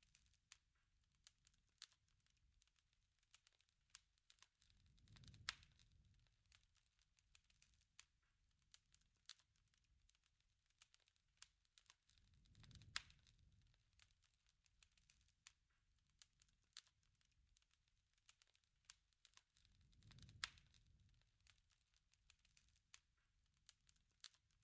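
Faint crackling of a wood fire, with scattered small pops and snaps. A low rushing swell rises three times, about every seven and a half seconds, and each peaks in a louder pop.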